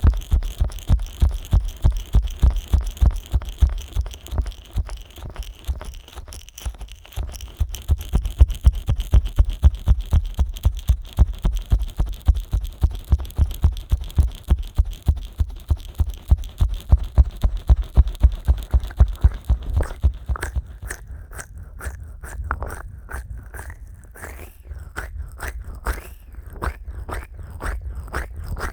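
Fingers slick with vaseline rubbing and pressing on the silicone ears of a 3Dio binaural microphone: fast, regular, squelchy strokes with dull thuds, about four or five a second. About twenty seconds in they turn sparser and crisper.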